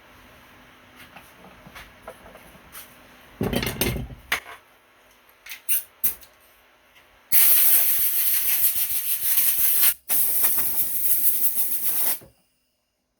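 Loud hissing spray in two long bursts, the second following a brief break, preceded by scattered handling clicks and a short knock.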